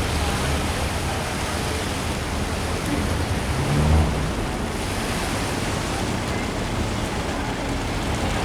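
Water rushing through an open sluice gate, a steady loud roar, with a low boat-engine hum underneath that swells briefly about four seconds in.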